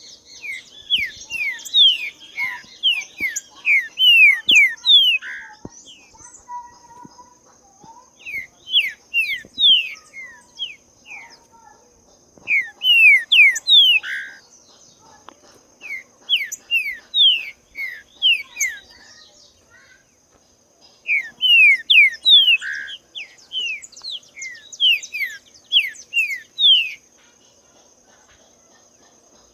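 Green-winged saltator (trinca-ferro) singing: five bouts of quick, downward-slurred whistled notes, each bout a few seconds long with short pauses between, and the song stops a couple of seconds before the end. A steady high insect drone runs behind it.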